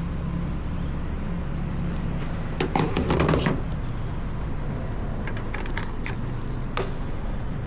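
A motorcycle engine idling with a low, steady hum that fades about halfway through. A brief rustling scrape comes about three seconds in, followed by a few light clicks.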